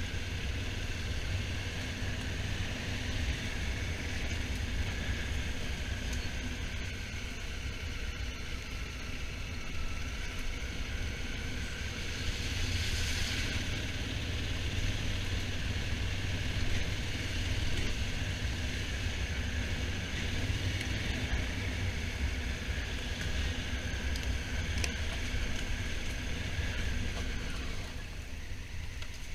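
Honda Africa Twin motorcycle being ridden, with a steady low engine rumble under constant wind rush. About halfway through there is a brief louder rush of wind noise, and the level drops for a moment near the end.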